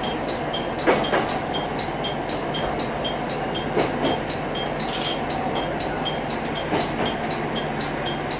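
Kitakinki Tango Railway diesel railcar running, heard from inside the car: a steady rumble over which a fast, regular high-pitched ticking runs at about three to four a second, with a heavier knock roughly every three seconds.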